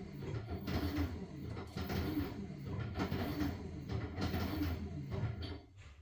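LG washing machine washing a load of blankets: water and fabric sloshing in a rhythm about once a second over a low motor hum, dying away near the end.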